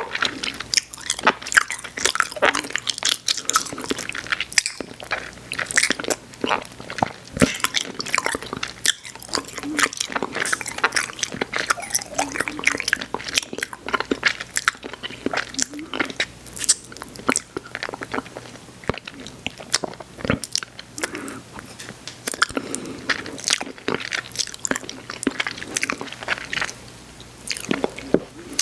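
Close-up chewing of Airheads Xtremes sour chewy candy: wet, sticky mouth clicks and smacks with quick bites, going on without a break.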